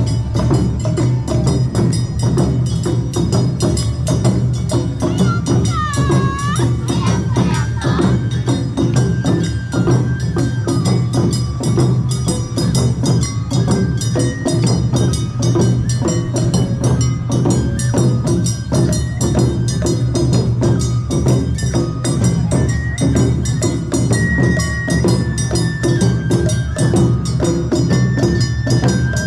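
Awa Odori festival band playing: drums and clanging hand-held gongs beat out a fast, steady rhythm under a high flute melody of held notes stepping up and down.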